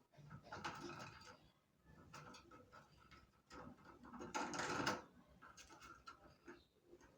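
A parrot working the metal lock of its cage with its beak: irregular clicks and metallic rattles, loudest in a clattering burst about four and a half seconds in.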